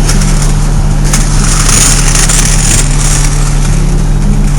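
Fire truck's engine running steadily with a loud low drone, heard from inside the truck, with a hiss swelling for a second or so about two seconds in.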